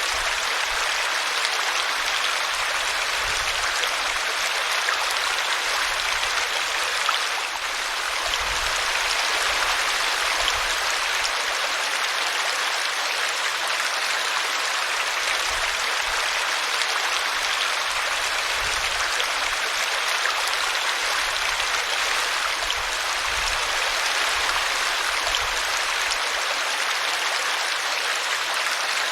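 Small brook flowing over a tree root: a steady rush and splash of running water.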